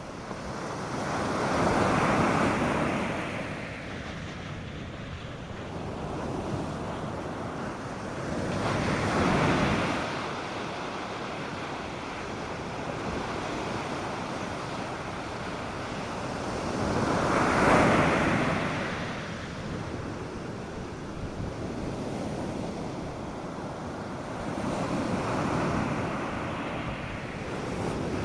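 North Sea surf on a sandy beach: four waves break and wash in, roughly every seven to eight seconds, with a steady hiss of water between them. The third wave is the loudest.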